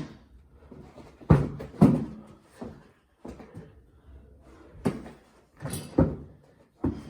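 A basketball being played in a small room: a handful of sharp, irregularly spaced thuds and bangs as the ball bounces and strikes hard surfaces, with the room echoing.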